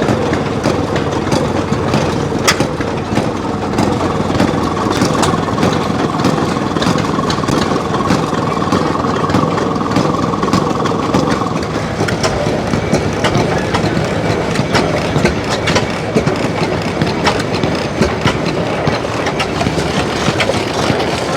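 Large antique engine running steadily, with a dense mix of clicks and knocks. A faint steady high tone holds for several seconds around the middle.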